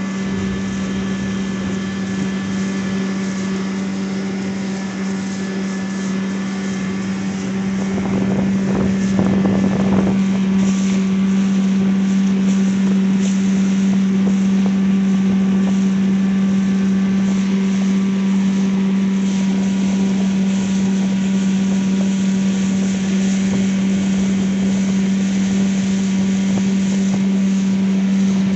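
Evinrude (Johnson) 9.9 hp outboard motor running steadily under way, pushing an inflatable boat, with an even, unchanging engine drone and wind noise over the microphone. A short rush of noise breaks in around eight to ten seconds in, after which it runs a little louder.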